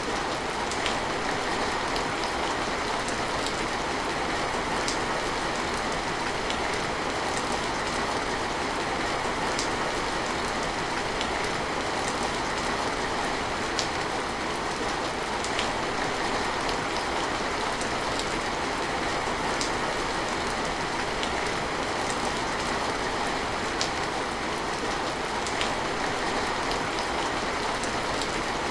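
Steady rain falling on surfaces, with scattered sharp drops and drips heard every second or two.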